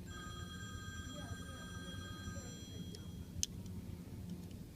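A steady electronic tone of several pitches sounds for about three seconds, then stops, and a single sharp click follows.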